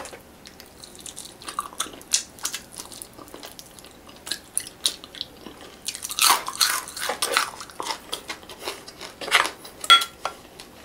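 Close-miked chewing and biting of fried fish, many short wet clicks, busier and louder from about six seconds in. Near the end a spoon clinks once against a glass bowl.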